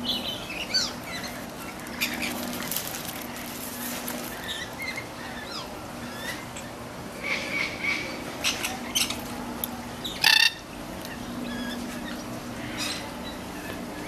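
Birds chirping and calling in short, scattered calls, with one loud call about ten seconds in.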